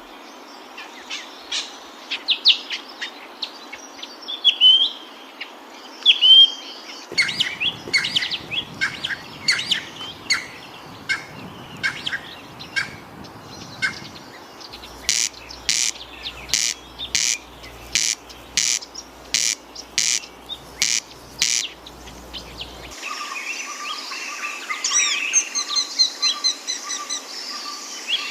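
Wild birds calling and singing, in several stretches that change abruptly. First come scattered chirps and short sweeping notes, then a run of sharp calls repeated about twice a second, then denser warbling song near the end.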